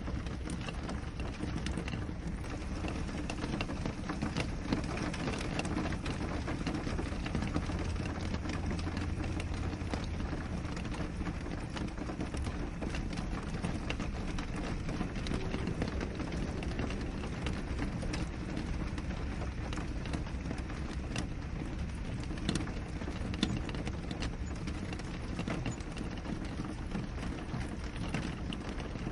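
Steady rain with many separate drops tapping on window glass, over a continuous low rumble.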